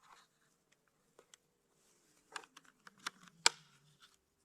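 Scattered small clicks and taps from a trail camera being handled and fastened in place, with one sharper snap about three and a half seconds in.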